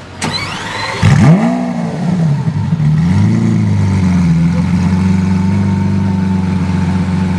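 Lamborghini Aventador LP700-4's 6.5-litre V12 starting up through a loud aftermarket exhaust. After a short rising whir, the engine catches about a second in with a sharp flare of revs that falls away. It rises briefly once more and then settles into a steady idle.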